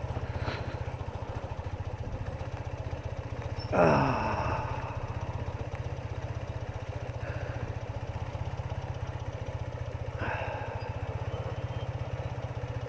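BMW R80RT motorcycle's air-cooled boxer twin running steadily at tick-over. About four seconds in, a brief louder sound sweeps down in pitch over it.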